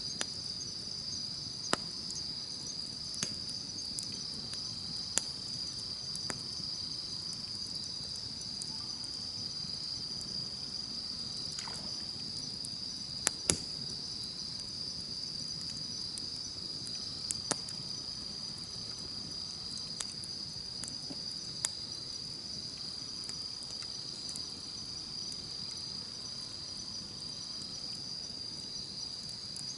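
Wood campfire crackling, with sharp pops at irregular intervals, two close together about halfway through, over a steady high-pitched chorus of insects.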